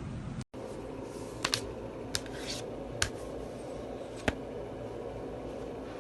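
A handful of short, sharp clicks, about five, scattered over the first few seconds above a steady low background hum.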